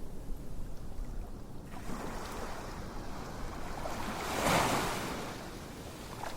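Ocean waves washing in as a steady surf hiss, with one wave swelling to a peak about four and a half seconds in and then receding.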